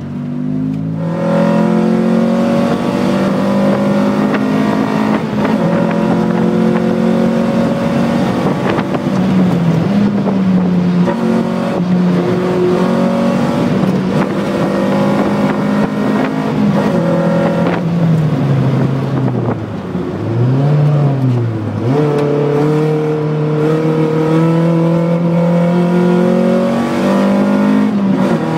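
Lotus Elise's four-cylinder engine heard from inside the car, accelerating hard out of the pit lane and up through the gears, its pitch climbing and dropping back at each shift. About twenty seconds in the engine note falls low and comes back up as the car slows for a corner, then it pulls hard again.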